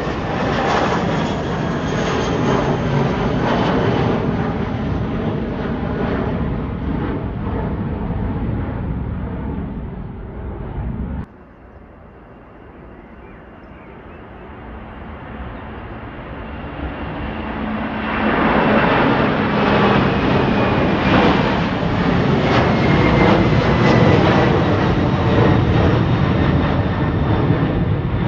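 Airliner taking off, its engines loud with a high whine. The noise cuts off abruptly about eleven seconds in, then another aircraft's engine noise swells up until it is loud again.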